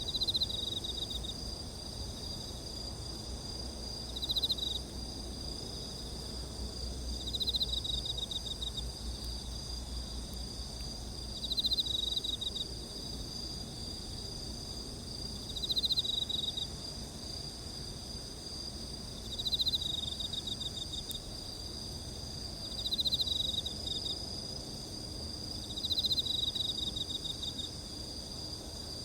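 Insect chorus: several crickets keep up steady high trills together, while one insect repeats a louder pulsed chirp of about a second, roughly every three to four seconds.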